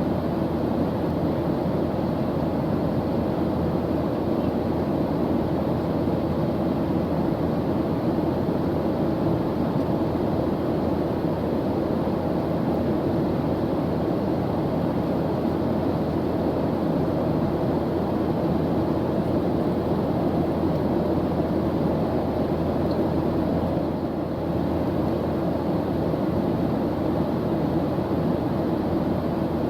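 Airplane engine noise in flight: a steady, unchanging low rumble with no breaks.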